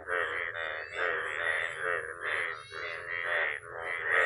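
Frogs croaking in a chorus: loud, overlapping calls of a few tenths of a second each that follow one another without a break.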